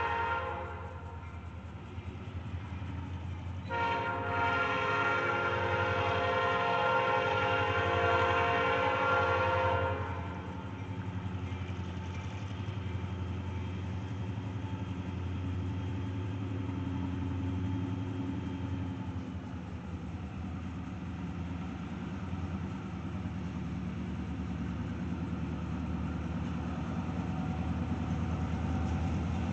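Freight train locomotive horn sounding several tones at once: one blast ending just after the start, then a long blast of about six seconds. After it, the steady low rumble of the diesel locomotive runs on, growing a little louder near the end.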